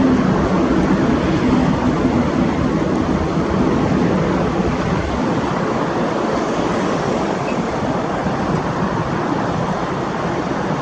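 Jet engine roar of a Boeing 767 airliner moving away, a steady rushing noise. Its humming tones fade in the first seconds, the deep rumble drops off about five seconds in, and what remains is a slowly fading rush.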